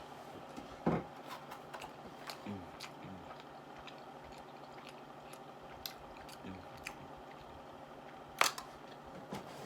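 Close-up eating sounds: chewing with small wet clicks, and two louder knocks, one about a second in and one near the end.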